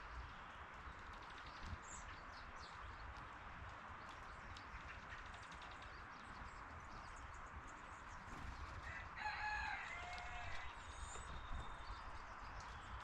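A rooster crowing once, about nine seconds in: one call of about a second and a half that steps down in pitch. It rises over a steady outdoor background hiss with a few faint, high bird chirps.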